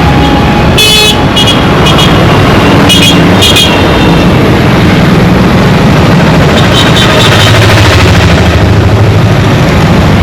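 Dense Indian street traffic: a steady drone of engines and road noise, with several short, high horn toots in the first four seconds and another cluster about seven seconds in.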